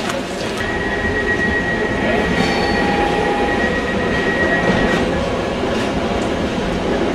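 Electric passenger train at a station platform: a steady rumble with a high, steady whine lasting about four seconds, and a shorter, lower whine in the middle of it.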